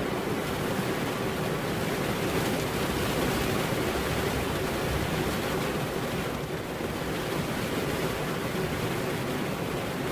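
Steady heavy rain: a dense, even hiss with no distinct thunderclap.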